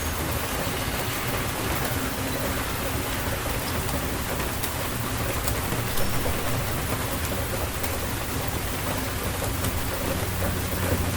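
Steady rain falling on surfaces, with a low rumble of thunder under it that is strongest at the start and again near the end, and scattered sharp drop ticks.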